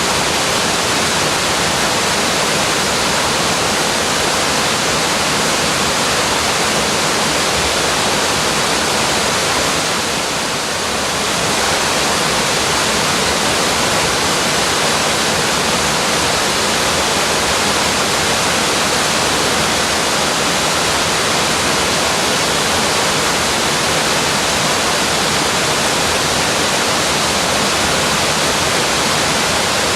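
Uogaeri Falls, a waterfall, rushing: a loud, steady wash of falling water with a slight dip in level about ten seconds in.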